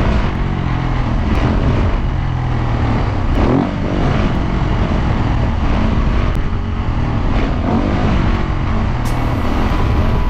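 Dirt bike engine revving hard, its pitch rising and falling over and over as the throttle opens and closes.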